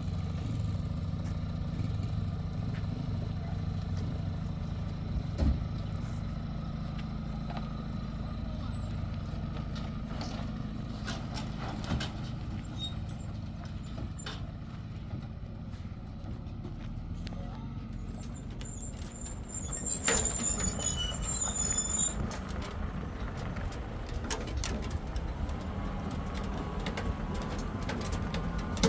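A motor vehicle's engine running steadily, with a few knocks and rattles. About twenty seconds in there is a brief spell of high chirping squeaks.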